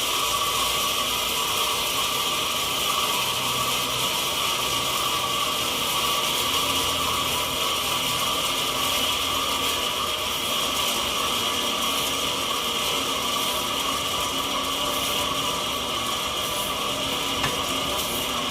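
Sawmill saw running steadily while milling a mahogany log: a continuous mechanical noise with a steady high whine.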